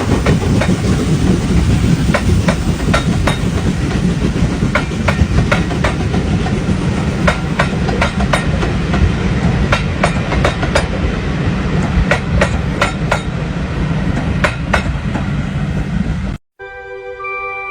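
Train running on the track, a heavy rumble with irregular sharp clicks of wheels over rail joints. About sixteen seconds in it cuts off abruptly and music with sustained tones takes over.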